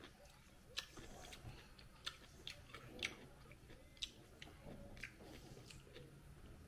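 Faint close-up chewing, with scattered soft mouth clicks coming irregularly about once a second.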